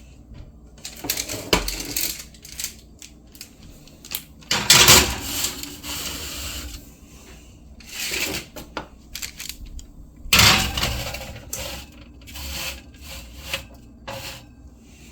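Cookie tray going into a kitchen oven: scattered metal clanks and knocks, with two louder clatters about four and ten seconds in as the oven door and tray are handled. Near the end comes a quick run of short clicks as the oven's timer is set.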